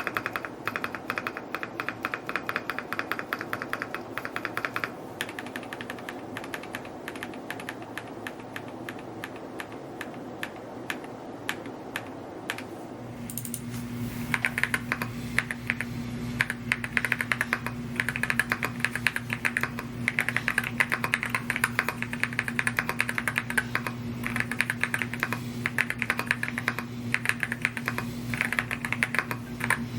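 Fast, continuous typing on a Rainy75 mechanical keyboard. The character of the keystrokes changes about thirteen seconds in, and a steady low hum runs beneath them from then on.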